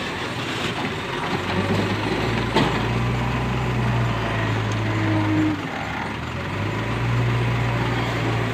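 JCB 3DX backhoe loader's diesel engine working, revving up about a second and a half in, dropping back briefly past the middle, then revving up again, as the hydraulics take load. A single sharp knock comes about two and a half seconds in.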